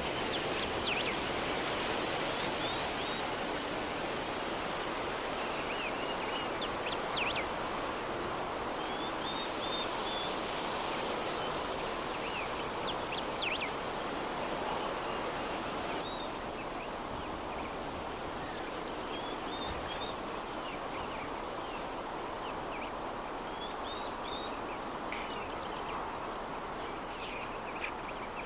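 Steady soft breeze, an even hiss of wind, with birds chirping now and then: short high chirps and quick runs of repeated notes, several times throughout.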